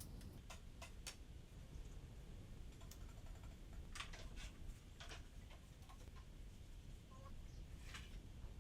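Faint, irregular clicks and taps, about a dozen, over a low background rumble.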